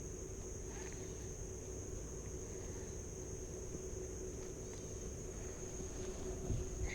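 Steady summer outdoor ambience over water: a constant high-pitched insect drone over a low wind rumble, with a couple of faint bird chirps and a soft thump near the end.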